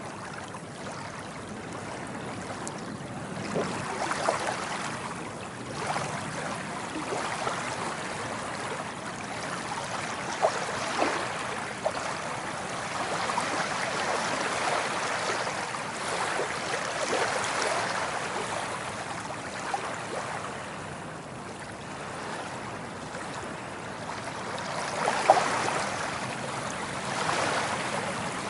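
Small waves lapping and splashing, the wash swelling and easing every few seconds, with a few sharper splashes, the loudest about 25 seconds in.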